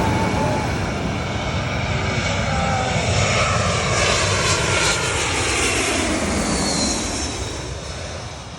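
Jet airliner passing low overhead: loud engine rush with a whine that falls in pitch as it goes by, then fades away near the end.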